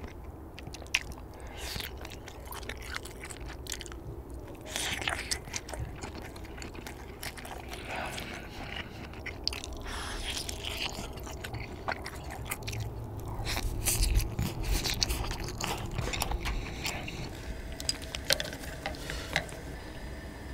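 Close-up eating sounds: soft fish cake (eomuk) being bitten off a skewer and chewed with small wet mouth clicks.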